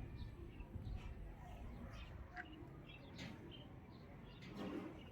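Faint, scattered bird chirps over low, steady background noise.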